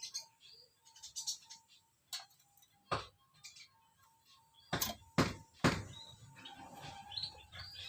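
A few sharp knocks or taps, four loud ones close together in the middle, among fainter clicks, with small birds chirping near the end.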